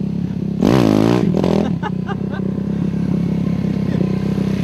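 Kawasaki motocross bike's engine running steadily at low revs, with one sharp burst of throttle about half a second in that swells and drops back within about a second.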